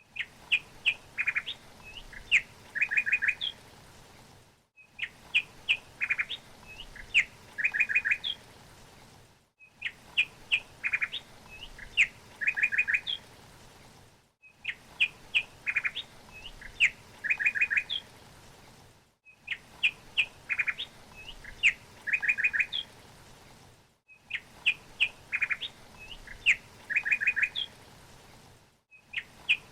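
A songbird chirping: a run of quick, sharp chirps and a few short trills, the same passage repeating about every five seconds with a brief drop to silence between repeats, as from a looped recording.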